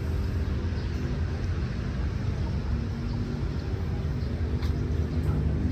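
City street traffic, with a vehicle engine running steadily close by, giving a continuous low hum over general road noise.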